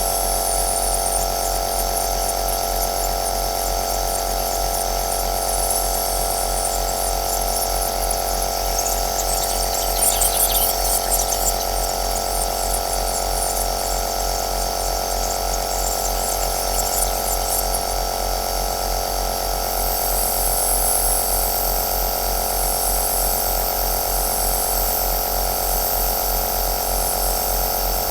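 Compressor nebulizer running steadily: an electric motor hum under a hiss of air and mist, with a brief crackling fizz about ten seconds in and a wavering high hiss in the second half.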